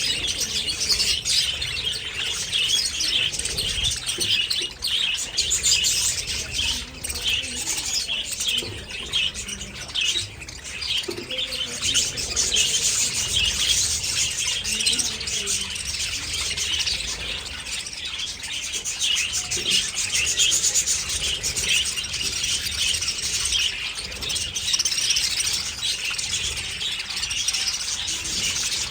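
A flock of budgerigars chattering and chirping continuously, many birds calling over one another in a dense, unbroken stream of high warbles and chirps.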